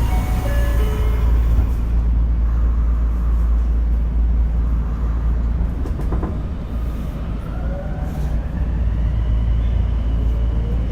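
Tokyo Metro 02 series subway train heard from inside the car: a steady low running rumble. In the second half the motor whine sets in and rises slowly in pitch as the train picks up speed.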